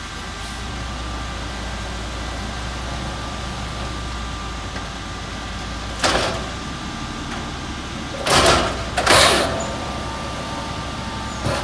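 Mack automated side loader garbage truck running steadily, with a constant high whine over the engine. It is broken by a short burst of noise about six seconds in and two louder bursts around eight and nine seconds in, the kind of clatter and hiss made as the truck handles a bin.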